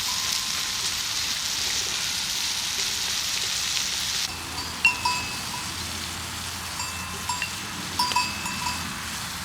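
A steady hiss that cuts off abruptly a little over four seconds in, followed by a scatter of short, bell-like metallic clinks.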